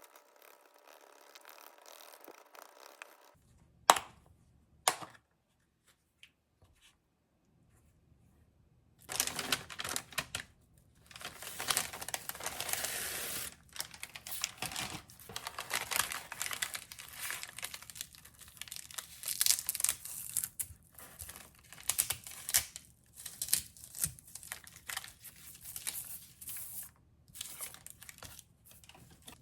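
Two sharp clicks, then about a dozen seconds of irregular crinkling and tearing of packaging, handled by hand while food is prepared.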